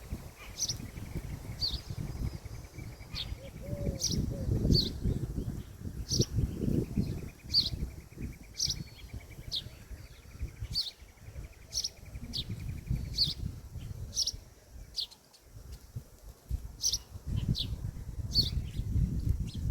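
A bird giving short, sharp high chirps over and over, about one or two a second and often in quick pairs, over a low rumble. A fine buzzing trill comes and goes behind the chirps.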